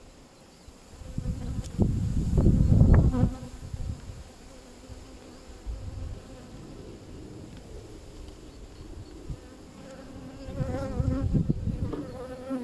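Honeybees buzzing around an open hive in a steady hum; the colony is agitated. Loud low rumbles about two seconds in and again near the end.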